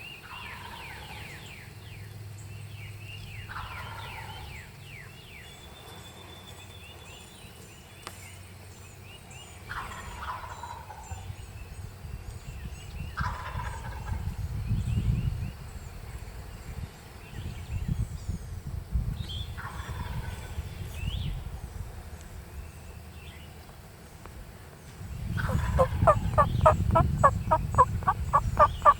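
Wild turkey gobbling repeatedly, about five separate gobbles spread out, each a quick rattling call that falls in pitch, with faint songbird chirps behind. Near the end a much louder, rapid run of evenly spaced calls lasts a few seconds.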